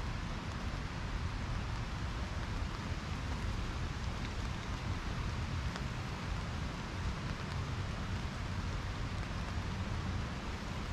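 Steady rain falling, an even hiss without let-up, with a low rumble underneath.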